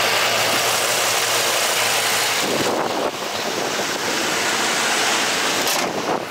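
Ford 6.8-litre V10 idling with a steady low hum under a broad rushing noise. About two and a half seconds in, the hum fades and a rougher rushing noise takes over.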